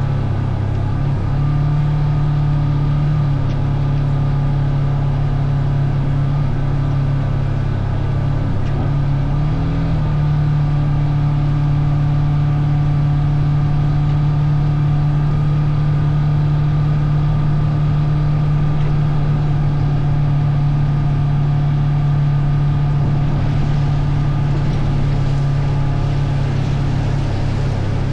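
Vehicle engine running steadily while being ridden, its note holding at a constant pitch with small shifts about a second in and again about ten seconds in.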